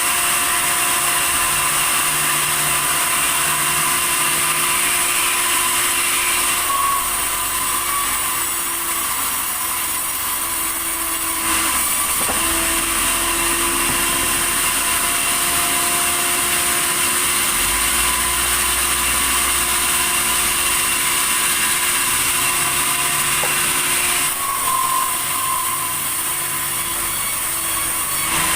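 Sawmill saw running steadily with a high whine and a machine hum. Its tone and loudness shift for a few seconds twice: about a quarter of the way in and again near the end.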